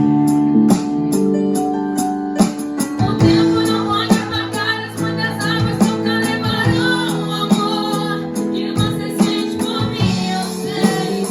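Live worship band playing a slow song on keyboard, electric guitar and drum kit, with sustained chords and regular drum and cymbal hits.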